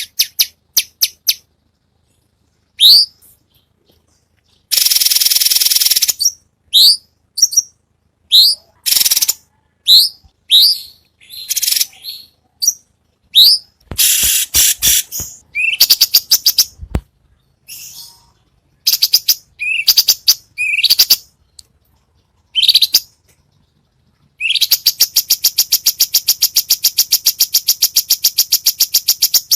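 Songbird song from a masteran tutor recording: sharp rising whistles and chirps broken by short pauses, a harsh buzzy rasp about five seconds in, and a fast, even trill lasting about five seconds near the end.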